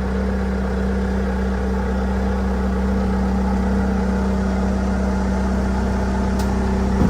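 Skid-steer loader engine running steadily at a constant speed, with a short knock at the very end.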